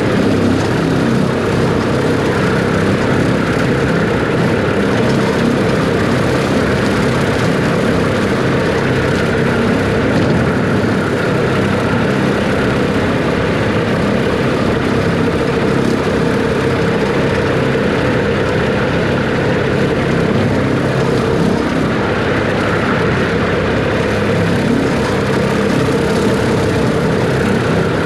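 Farm tractor engine running steadily while bush hogging, an even, unchanging drone.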